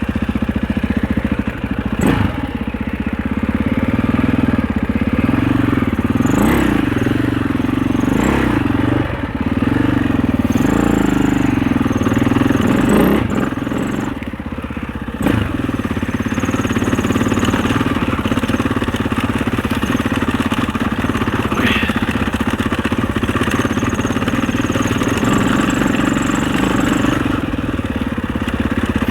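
Husaberg 650 single-cylinder four-stroke enduro engine running on the move, its revs rising and falling as the throttle is worked, then steadier. There are a couple of sharp knocks, one about two seconds in and one near the middle.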